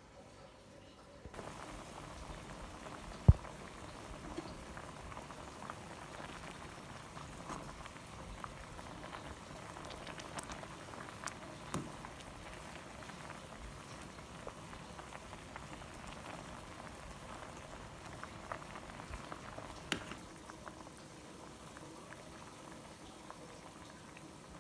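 A pot of sayur asem soup boiling, with a steady bubbling and crackle that starts about a second in. A single sharp knock sounds about three seconds in.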